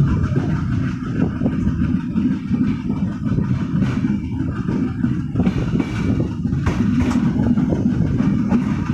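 A passenger train running along the track, heard from on board: a steady low rumble with a few sharper clatters between about four and seven seconds in.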